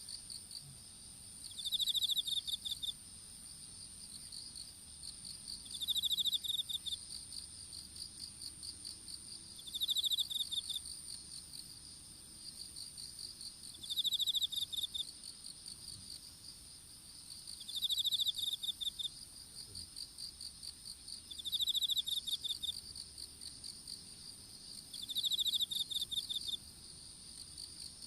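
Several field insects calling together. One keeps up a continuous high-pitched trill, others give pulsed trills, and one repeats a louder trill of about a second roughly every four seconds.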